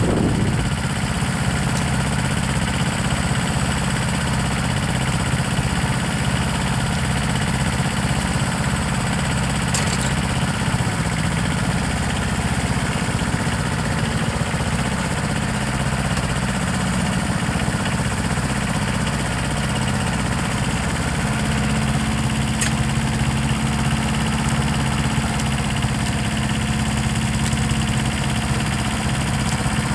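An engine idling steadily, a low hum with a small shift in pitch about halfway through.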